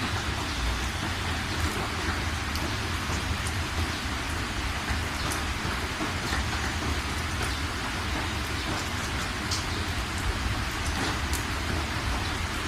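Steady rain falling, an even hiss with many small drops ticking through it and a low rumble underneath.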